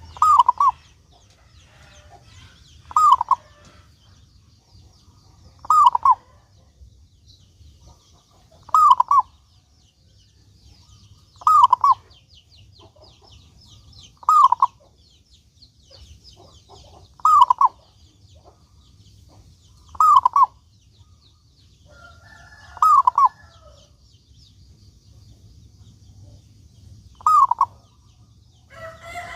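Zebra dove (perkutut) cooing: short two-part calls repeated about every three seconds, about ten in all. A faint high chirring runs behind it.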